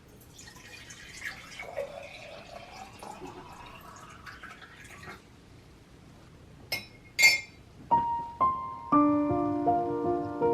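Faint indistinct room sounds, then two sharp clicks, after which gentle piano music begins about eight seconds in.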